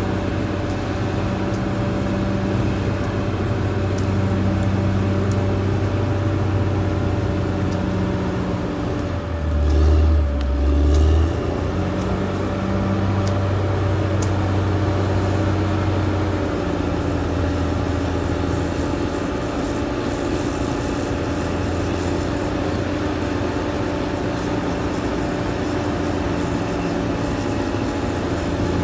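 Caterpillar D6R XL bulldozer's diesel engine running steadily as the machine works, its pitch shifting now and then. About ten seconds in it gives two short, deeper, louder swells.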